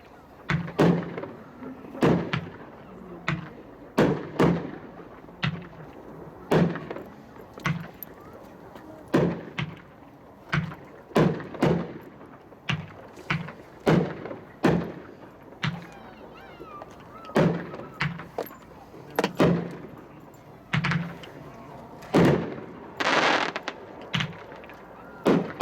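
Two identical 12-shot 500-gram firework cakes (Dragon) firing side by side: a rapid string of sharp booms, about one to two a second, with a crackling burst near the end.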